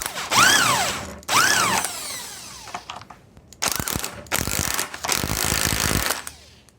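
Impact gun running the new nut down onto a strut top mount in several bursts. There are two brief runs whose pitch rises and falls as the motor spins up and down, then longer, denser hammering runs from about three and a half to six seconds in.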